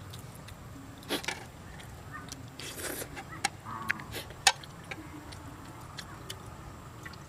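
A person chewing food with wet mouth and lip-smacking sounds, broken by several short sharp clicks, the loudest about four and a half seconds in.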